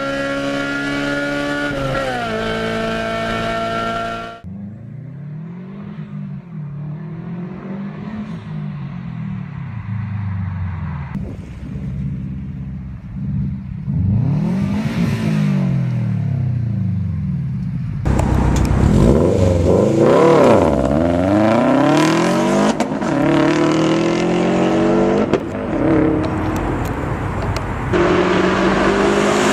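Four-cylinder car engines in a series of edited clips. First an engine holds high, steady revs and cuts off sharply about four seconds in. Then come repeated revs that rise and fall, growing louder and busier from about halfway through.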